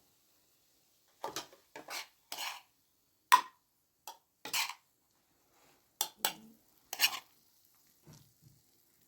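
Kitchen utensils clinking and scraping against cookware in about a dozen short, separate strokes. The sharpest clack comes about a third of the way through.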